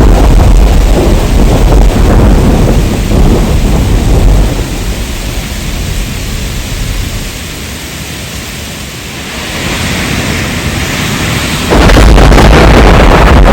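Heavy rain with a deep rolling thunder rumble. The rumble dies away through the middle, leaving lighter rain hiss, then the loud rumble comes back suddenly near the end.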